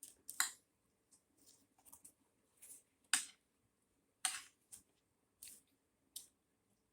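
Eating sounds: a string of short, irregular clicks and crunches of chewing, about one or two a second, the loudest a little after the start, at about three seconds and just after four seconds.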